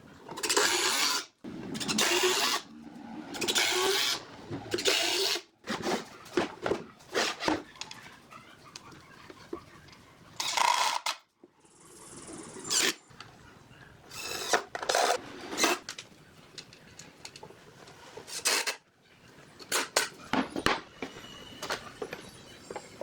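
Woodworking tool sounds: short bursts of power-tool work on wood, broken up by sharp knocks and clicks.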